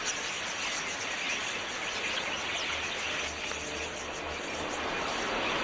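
A large flock of wild budgerigars chattering: a dense, steady mass of overlapping high chirps.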